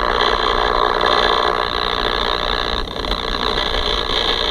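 Alinco DR-235T MkIII 220 MHz mobile ham radio's speaker putting out a steady buzzing noise that the squelch will not shut out. The owner likens it to power line interference and suspects a bad part in the radio.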